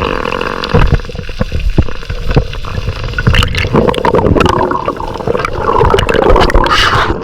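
Water sloshing and gurgling close to the microphone, loud and uneven, with many small knocks.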